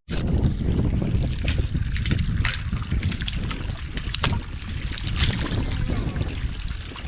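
Spade digging into wet mud, with scattered short knocks and squelches, under a steady rumble of wind on the microphone.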